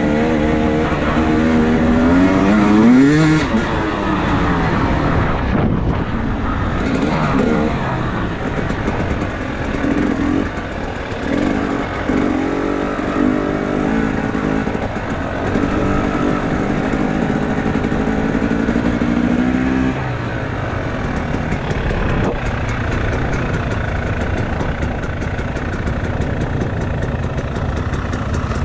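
Enduro motorcycle engine running with the revs rising and falling: it climbs a few seconds in, holds a steady higher note through the middle, then drops to a lower, rougher note for the last part.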